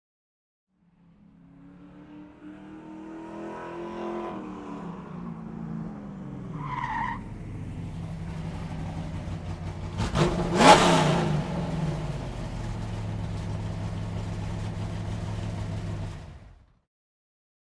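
Car sound effect: an engine fades in and runs with its pitch rising and falling, with a brief high tone about seven seconds in. About ten and a half seconds in comes a loud, sudden noise, the loudest moment, like a tyre skid. The engine then settles into a steady low run and cuts off near the end.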